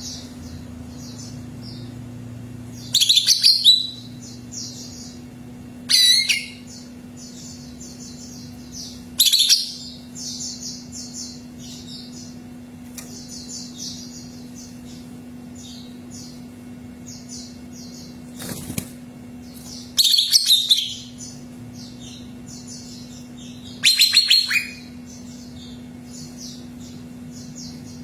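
Cucak ijo (green leafbird) singing: steady soft, high chittering, broken by five loud, fast song phrases, each under a second and coming every few seconds. A steady low hum runs underneath.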